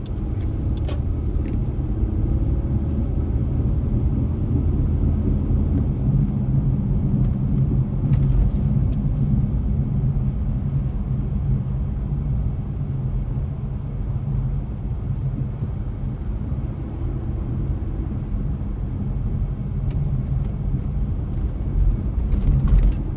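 Car driving, heard from inside the cabin: a steady low rumble of engine and road-tyre noise, with a brief louder swell near the end.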